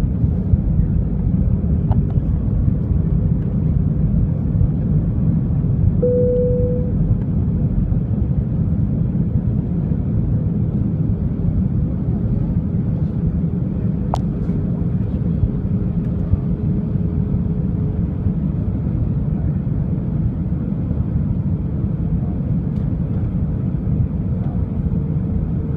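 Steady rumble of engine and airflow noise inside a jet airliner's cabin on its approach to landing, with a faint steady hum. A short tone sounds about six seconds in and a single sharp click about halfway through.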